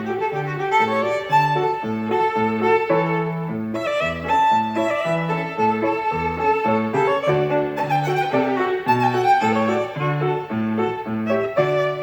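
Violin playing a melody over an accompaniment of short, evenly repeated low notes.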